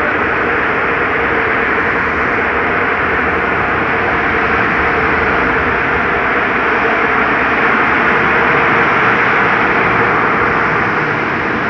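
Car wash air dryers blowing: a loud, steady rush of air with a faint steady hum.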